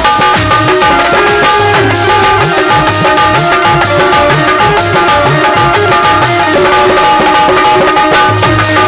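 Instrumental interlude of a live Indian folk song: hand drums keep a fast, steady rhythm with a regular high jingling beat under a sustained melody line and low bass notes.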